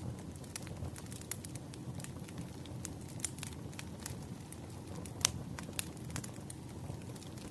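Firewood burning: a steady low rumble with frequent sharp crackles and pops at irregular intervals, the loudest pop a little past five seconds in.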